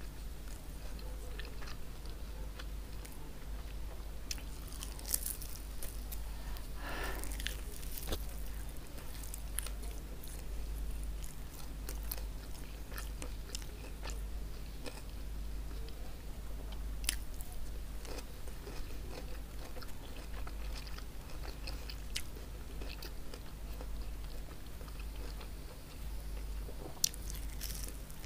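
Close-miked chewing and biting of crispy chicken hawawshi, with scattered crunches and wet mouth clicks over a steady low hum.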